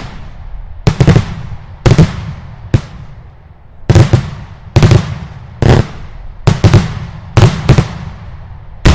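Italian daylight fireworks: loud aerial bomb bursts going off about once a second, many in quick doubles or triples, each bang trailing off in a rolling echo.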